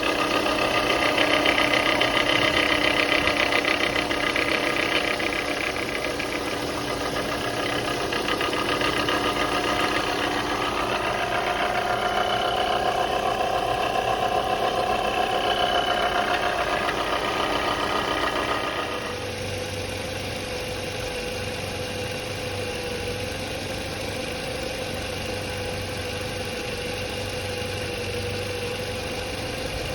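Car engine running with a failing alternator: a rough, grinding sound with several steady high-pitched whines over it. About 19 seconds in it changes suddenly to a quieter, smoother engine running with a good alternator.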